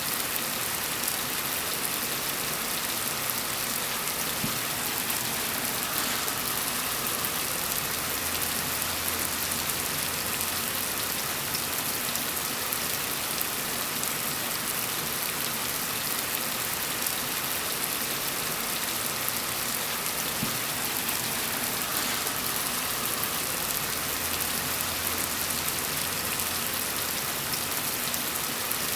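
Steady rain: a dense, even hiss of falling drops with no breaks.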